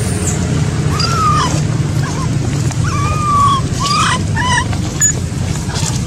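Baby macaque crying: several short, high calls that rise and fall, the longest a little past halfway through. A steady low rumble runs underneath.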